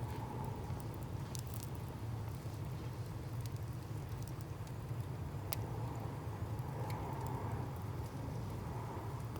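Wood fire burning: a steady low rumble with scattered sharp crackles and pops from the burning firewood.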